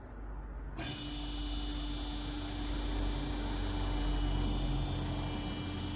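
Metal-cutting band saw running: a steady machine hum with a constant tone, starting abruptly about a second in.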